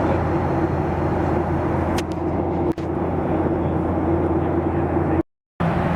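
Steady cabin roar of a Boeing 737-800 in flight, with a constant low engine hum under the air noise. It drops out briefly to silence about five seconds in.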